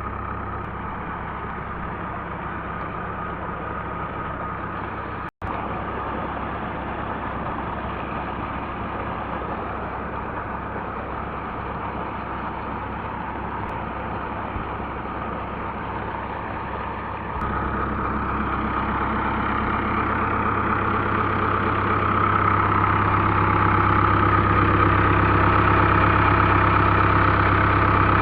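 Diesel tractor engine running steadily while it drives a tubewell pump. The sound cuts out for an instant about five seconds in, then grows louder from about seventeen seconds in.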